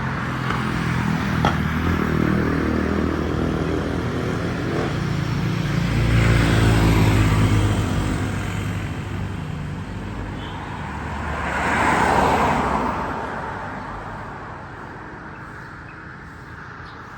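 Motor vehicles passing on a road: an engine grows louder and passes about six to seven seconds in, its pitch dropping as it goes by, then a second vehicle passes about twelve seconds in and the sound fades away.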